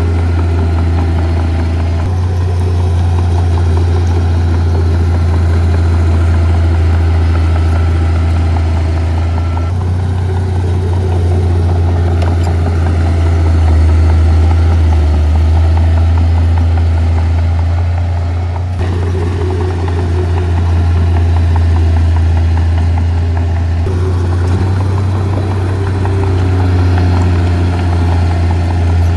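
Heavy diesel earthmoving equipment running steadily with a deep engine hum. The sound shifts abruptly several times.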